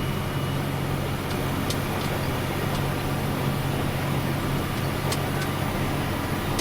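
Snow plow truck's engine droning steadily under heavy load as the truck and plow push through deep drifted snow, heard from inside the cab over a constant noisy rush.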